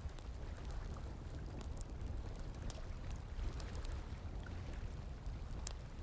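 Bonfire crackling, with scattered sharp pops and snaps (one stronger pop near the end), over a steady rush of flowing water.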